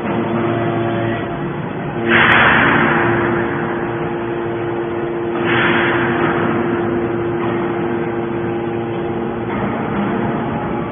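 Hydraulic scrap metal baler running with a steady hum, broken by two louder bursts of harsh noise, the first about two seconds in and the stronger of the two, the second about five and a half seconds in.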